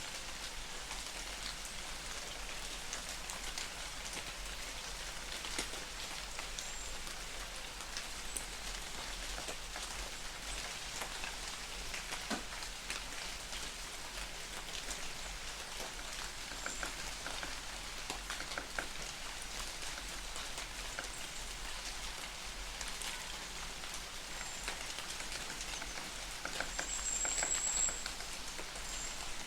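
Light rain falling in a forest: a steady hiss with many separate drops ticking. A few brief high chirps come through, the longest near the end.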